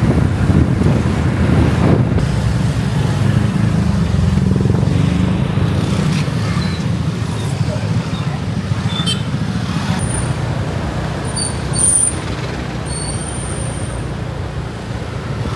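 Steady low roar of a waterfall's falling water, with a few brief high chirps over it in the second half.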